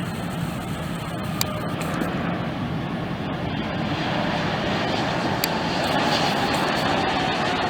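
Jet airliner engines: a steady rush with a faint whine that grows a little louder about halfway through, with a couple of brief clicks.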